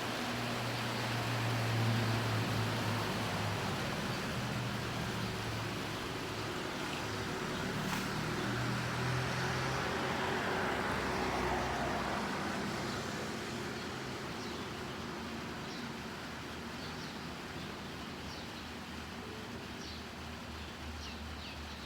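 Rain with road traffic: a low engine hum, and a vehicle swishing past on the wet road around ten seconds in. Short high bird chirps come in during the second half.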